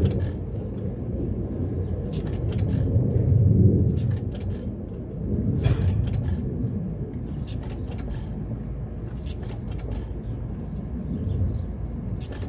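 Galloway Handy Andy hit-and-miss gas engine running, with sharp firing pops every second or two over a steady low rumble.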